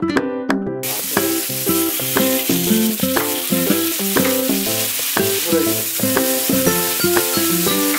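Stir-fry vegetables sizzling in a hot wok, a steady hiss that starts abruptly about a second in. Plucked-string background music plays over it.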